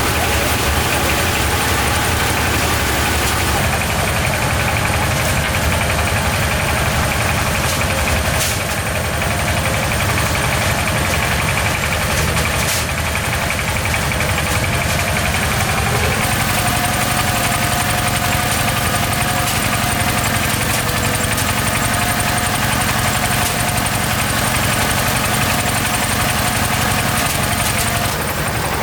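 An engine running steadily, its tone shifting slightly about sixteen seconds in.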